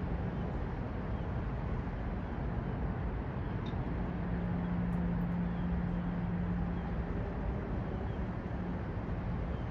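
Steady outdoor city ambience: a dense rumble of traffic and urban noise, with a low steady hum that swells about four seconds in and eases off around seven seconds.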